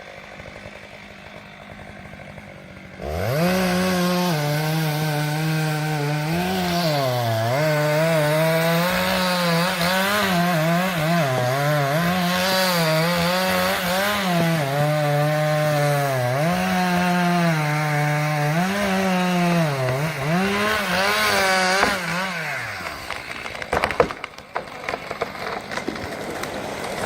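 Chainsaw cutting into a large tree trunk: the engine comes in at full throttle about three seconds in, and its pitch sags and recovers repeatedly as the chain bites into the wood. Near the end the engine drops back, leaving irregular cracks and knocks.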